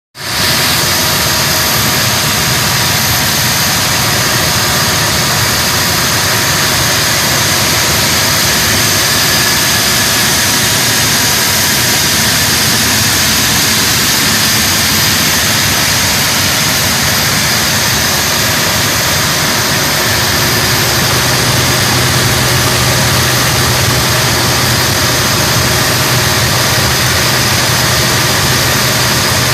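AC-12 engine running steadily on a test run, with a constant high whine over its noise; a deeper steady hum comes in about two-thirds of the way through.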